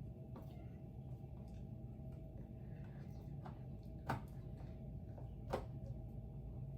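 A few faint, sharp clicks and light knocks of fan parts being handled and fitted, the clearest two about four and five and a half seconds in, over a steady low hum.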